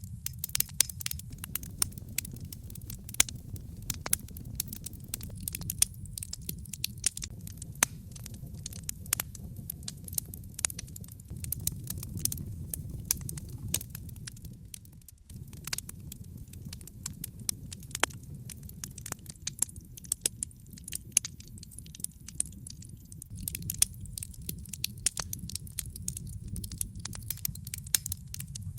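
Log fire in a fireplace crackling, with frequent irregular sharp pops and snaps over a steady low background noise of the burning. The low background briefly drops out about halfway.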